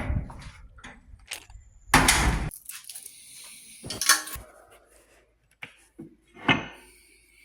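Keys and a door being handled: a loud clattering knock about two seconds in, then a few smaller clinks and knocks.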